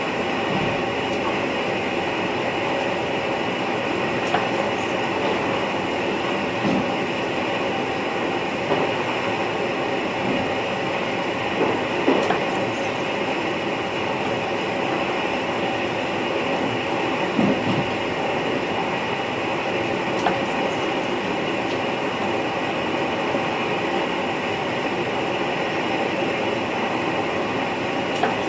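Cab interior noise of an NS VIRM double-deck electric train running along the line: a steady rumble of wheels on rail, with a few short knocks scattered at irregular intervals.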